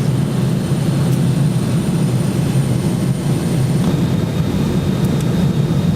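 Steady low rumble of jet airliner cabin noise, heard inside the passenger cabin during the descent toward landing.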